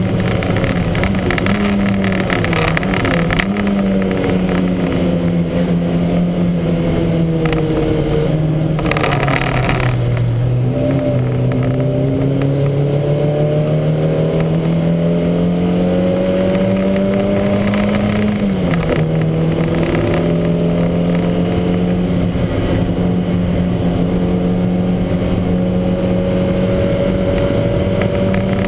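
Lancia Montecarlo's twin-cam four-cylinder race engine under load on track: revs fall over the first ten seconds, then climb, drop sharply at a gear change about eighteen seconds in, and climb slowly again. A short rush of noise comes about nine seconds in.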